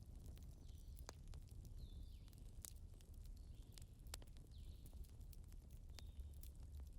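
Faint crackling of burning candles: scattered sharp pops and ticks at irregular intervals over a low steady rumble.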